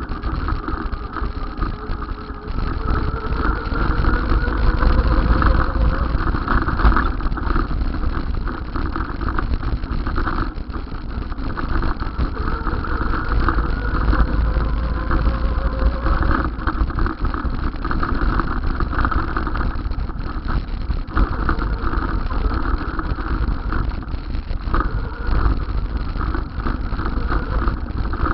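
Road noise while riding, with heavy wind rumble on the microphone and steady vehicle engine noise. A faint whine rises slowly in pitch twice in the first half.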